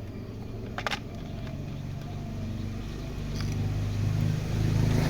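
A motor vehicle engine running steadily in the background, growing louder toward the end, with a sharp click of plastic toy parts being fitted together about a second in.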